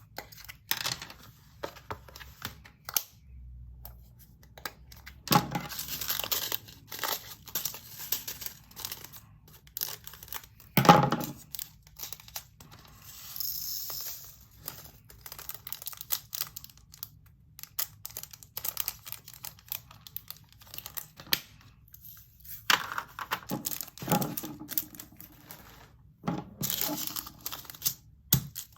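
Small plastic bags of resin diamond-painting drills being handled, crinkling and torn open, the drills tipped and rattling into plastic bead-storage containers. Scattered small clicks throughout, with one louder knock about eleven seconds in.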